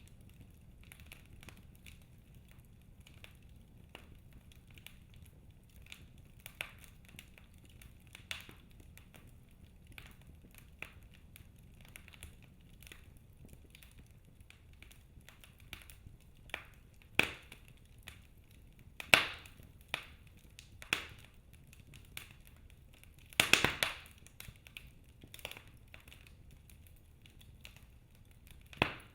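Wood fire crackling in a fireplace: scattered sharp pops and snaps over a faint steady hiss. The pops grow louder and more frequent in the second half, with the loudest cluster about two-thirds of the way through.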